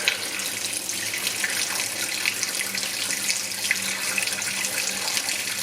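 Water running from a hose into a glass aquarium as it fills: a steady hiss and trickle, with a faint steady hum underneath.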